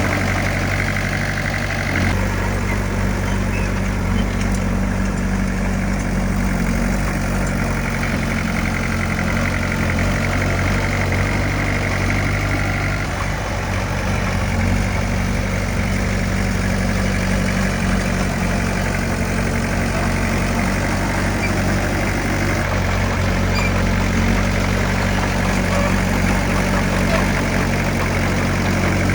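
Heavy diesel engine of earthmoving equipment running steadily, its note shifting slightly about two seconds in and again a little after twenty seconds.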